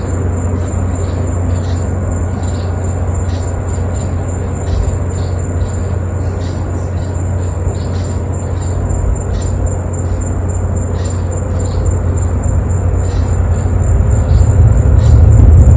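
Deep, steady rumble of a rocket launch heard from miles away, growing louder near the end as the engine noise reaches the beach.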